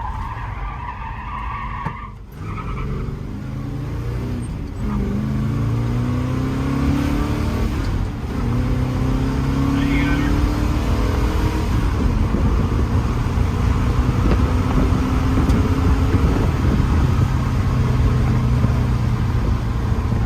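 A motor vehicle's engine running under way. Its pitch climbs twice as it accelerates and drops back between, as at gear changes, then holds fairly steady at cruising speed.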